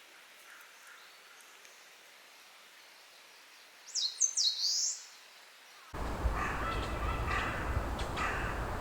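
Eastern crowned warbler singing one short song phrase of quick, high, sliding notes about four seconds in. Near six seconds the sound cuts to a louder outdoor background with a low rumble.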